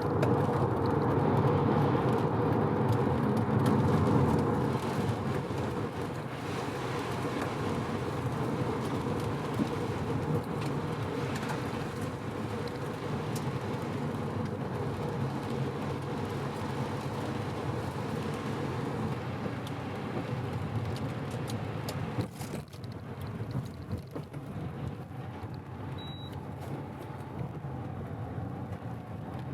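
FD3S Mazda RX-7's 13B twin-turbo rotary engine and tyre noise while cruising on an expressway. The engine is freshly rebuilt and being run in, so it is held to gentle acceleration. The sound eases after the first few seconds and drops again about three-quarters of the way through, and a short high beep comes soon after.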